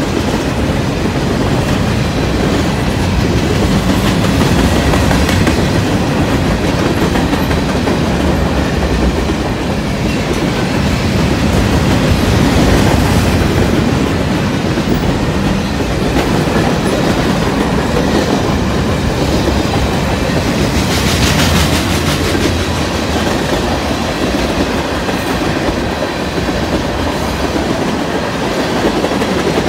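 Freight train cars (covered hoppers, then tank cars) rolling past: steel wheels running on the rails in a steady loud rumble with clickety-clack over the rail joints. A short stretch of rapid, sharper clicking comes a little past two-thirds of the way through.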